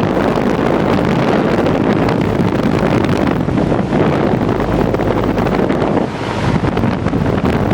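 Outdoor condensing unit of a 1982 GE Executive 2-ton central air conditioner running: a loud, steady rush of air from the condenser fan over a low hum, the fan's airflow buffeting the microphone.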